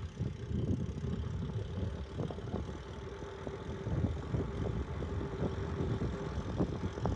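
Bicycle riding over a rough street: a low rumble with frequent small knocks and rattles, over a steady hum.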